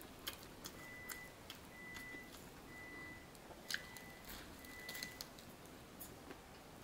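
Close-up biting and chewing of a crusty bánh mì sandwich: faint, scattered small clicks and crunches of mouth sounds, the sharpest about three and a half seconds in. A faint high steady tone comes and goes over the first five seconds.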